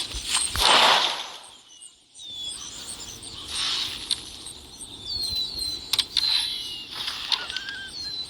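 Birds chirping: short, high, falling calls repeated over and over, with a couple of louder swishes of noise and a few sharp clicks.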